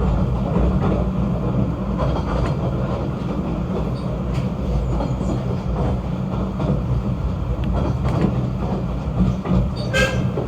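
Snowdon Mountain Railway train running, a steady low rumble, with a brief high-pitched squeak about ten seconds in.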